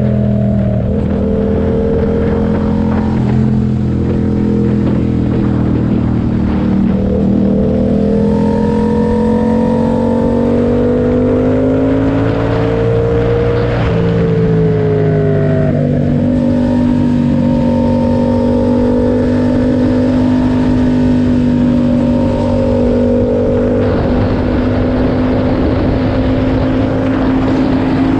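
Yamaha MT-07's 689 cc parallel-twin engine running through an SC-Project track exhaust with its dB-killer fitted, pulling under way. The note climbs slowly, falls back about fourteen seconds in, then holds steady.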